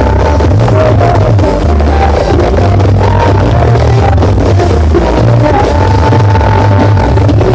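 Very loud dance music with heavy, pulsing bass and a held melody over it, played through a huge 'sound horeg' battle sound system.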